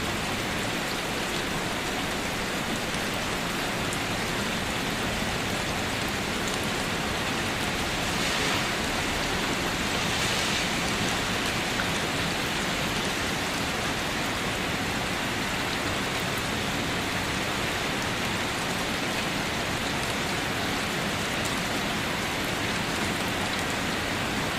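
Heavy rain falling steadily during a thunderstorm, with a brief swell about eight to eleven seconds in.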